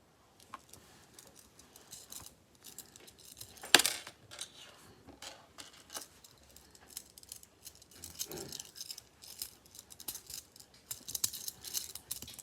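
A cat making an odd sound: irregular scratchy clicks and rustles, with one sharp, loud click about four seconds in.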